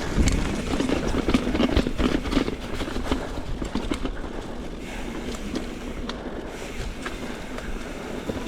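Mountain bike rolling fast through a rock garden: a continuous clatter of chain and frame rattle with sharp knocks as the tyres strike rocks, busiest in the first three seconds, then a lighter rattle as it runs on.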